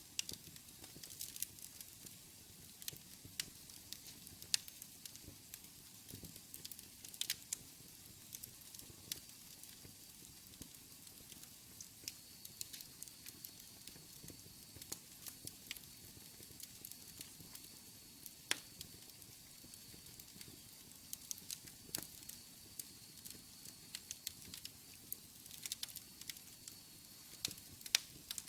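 Wood fire burning in a fireplace: a soft hiss with irregular sharp crackles and pops. A faint, thin high whistle runs through the second half.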